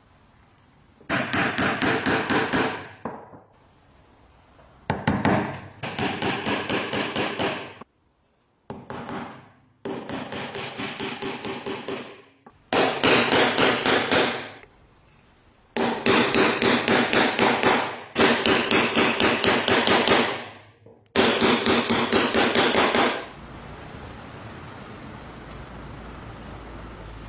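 Bursts of rapid, evenly repeated strikes, about eight bursts of roughly two seconds each, with a ringing tone under the blows. A steady low hum starts near the end.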